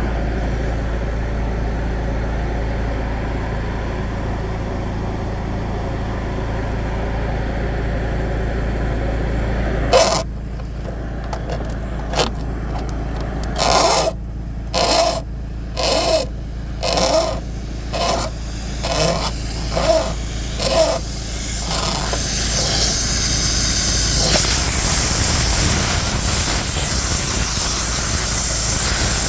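A steady low rumble, then a run of about eight short bursts of hissing noise roughly a second apart, followed by a hiss that grows louder near the end.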